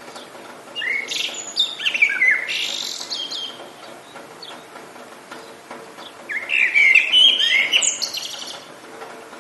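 A songbird singing two warbling, rapidly gliding phrases of about two seconds each, one starting about a second in and the other about six seconds in. Behind them is a steady hiss of light rain.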